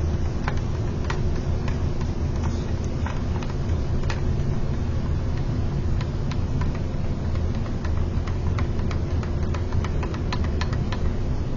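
A small motor running with a steady low hum, with scattered light clicks and taps throughout.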